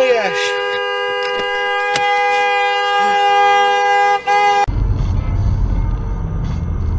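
Vehicle horn held down in one long steady blast, broken briefly near the end, then cut off suddenly. A low engine and road rumble follows.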